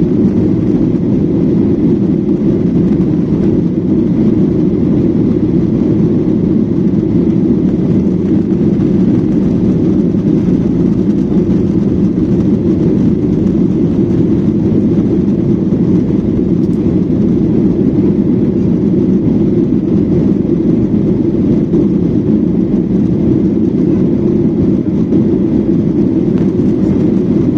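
Steady drone of an airliner's engines and airflow heard from inside the passenger cabin, deep and unchanging throughout.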